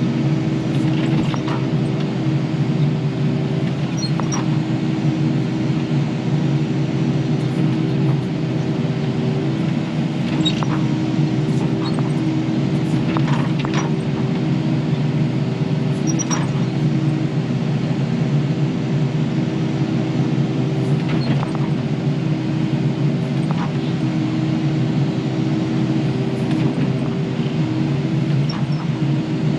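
Kubota KX080 excavator's diesel engine running steadily under load while digging, with scattered sharp knocks and clanks every few seconds.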